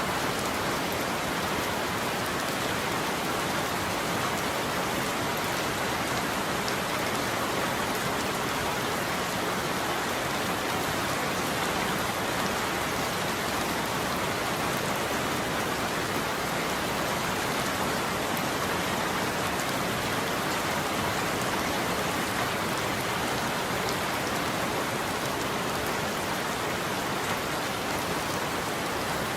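Steady heavy rain falling on a surface, an even hiss with fine drop patter and no thunder.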